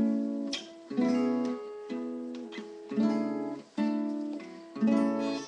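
Acoustic guitar strummed in sharp chords about once a second, each chord left to ring out in between.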